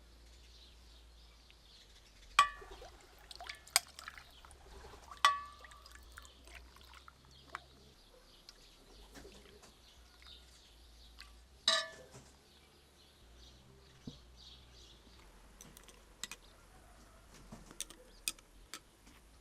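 Tableware clinking: three sharp knocks that ring briefly, with smaller taps and clicks in between.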